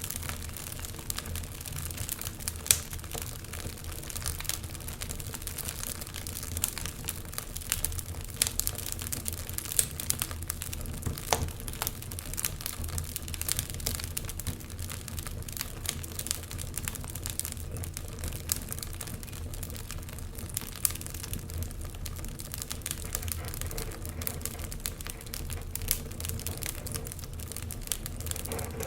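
Wood fire crackling, with dense irregular snaps and a few louder pops over a steady low rumble.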